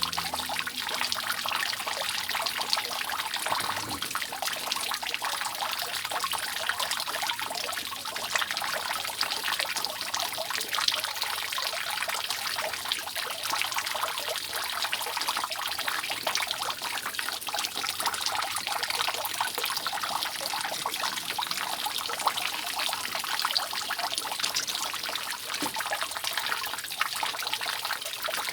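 Water dripping and trickling steadily off a roof, many drops falling at once in an even, unbroken stream of small splashes.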